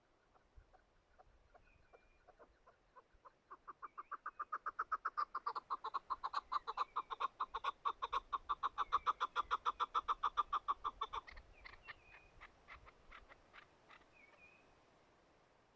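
Chukar partridge giving its chucking call: a rapid series of clucking notes that speeds up and grows louder, then breaks off about three-quarters of the way through and trails away in slower, fainter notes.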